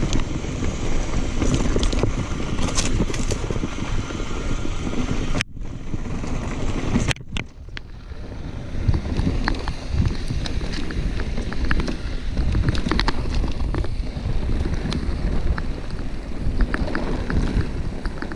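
Wind buffeting the microphone and tyre rumble from a mountain bike rolling down a dirt trail, with many small clicks and rattles. The sound cuts out briefly twice, about five and seven seconds in.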